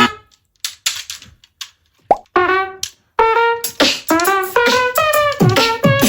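Beatboxing: a near-quiet stretch with a few scattered mouth clicks, then, from about two seconds in, a quick string of short pitched, buzzing vocal notes mixed with clicks.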